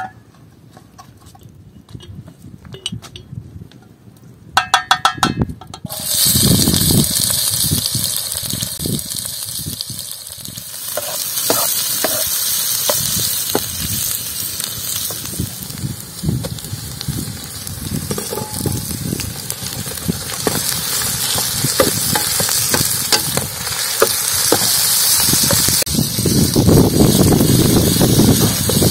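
Chopped onion frying in hot oil in a large black pan over a wood fire. After a few quiet taps it starts sizzling loudly about six seconds in and keeps up a steady sizzle, with a slotted metal spoon scraping and clicking against the pan as it is stirred. Near the end the sizzle grows fuller and deeper, with lamb chunks now in the pan.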